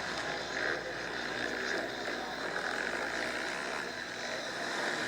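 Motocross bikes running on the track, a steady, distant engine drone.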